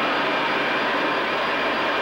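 Jet aircraft engines running steadily, a constant noise with a faint high whine.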